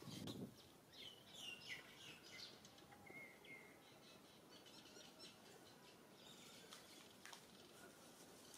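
Faint outdoor ambience with scattered short, high bird chirps and tweets, busiest in the first few seconds, and a brief low thud right at the start.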